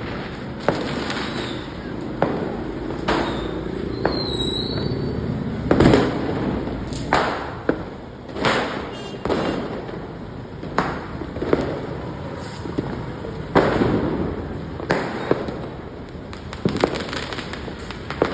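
Diwali firecrackers going off: a string of sharp bangs at irregular intervals, roughly one every second, some louder and nearer, some with an echo trailing after. A short high whistle sounds about four seconds in.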